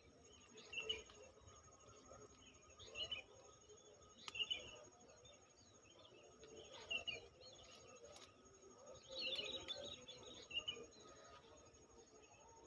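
Small birds chirping in short, scattered bursts every second or two, over faint outdoor background noise with a thin, steady high-pitched tone.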